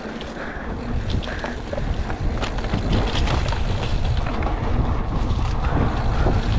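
A mountain bike descending a rough trail: wind rumbling on the microphone and the bike rattling and clicking over the ground, both growing louder as it picks up speed.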